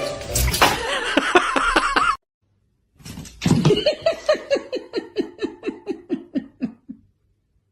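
Laughter: after a short break, a long run of quick laughs, about six a second, falling steadily in pitch.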